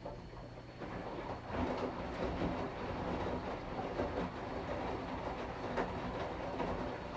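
Washing machine starting a wash phase after a pause: the motor hums and the drum turns, with clothes and water churning in an uneven, clattering rhythm that grows louder about a second and a half in.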